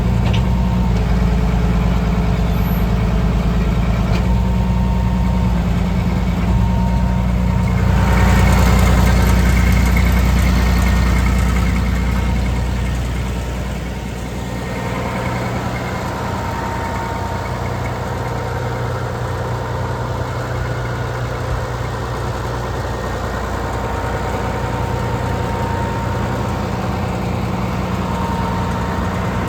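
Case IH 5130 tractor's six-cylinder turbo diesel engine running steadily. It grows louder and brighter about eight seconds in, then eases back to a quieter steady run a few seconds later.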